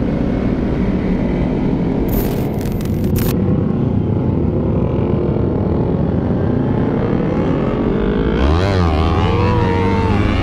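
Sport motorcycle engine running under way, with wind rushing over the microphone. A little after two seconds in there is a short hiss with a few clicks, and near the end the revs sweep sharply up and down a few times.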